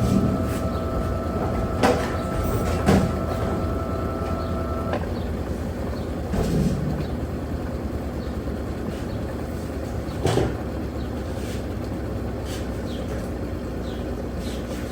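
Electrolux LTP15 agitator washing machine running with a steady rumble. A whine runs for the first few seconds and then stops, and there are a few short clicks.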